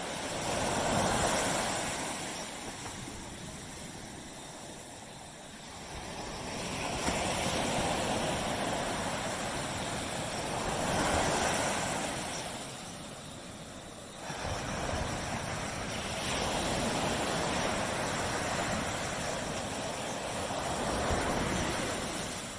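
Surf breaking on a beach, swelling and ebbing every four or five seconds, with a sharper break about two-thirds of the way through.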